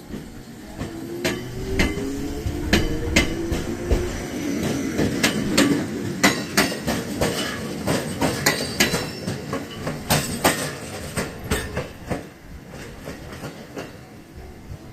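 Fuji Kyuko line electric train pulling out, its motor whine rising in pitch over the first few seconds as it speeds up, while the wheels click rhythmically over rail joints and points. The sound grows louder, then fades away near the end.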